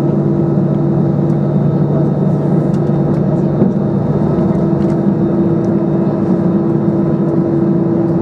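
Steady cabin drone of an Airbus A320-200 with its jet engines running, heard from inside the cabin: an even rumble with a low hum and a steady higher tone, plus a few faint clicks.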